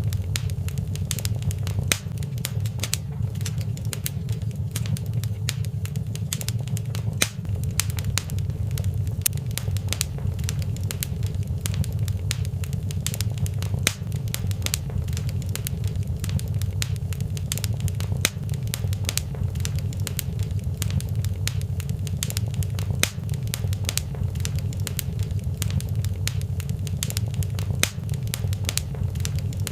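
Wood fire in a fireplace crackling: many small sharp pops and snaps over a steady low rumble.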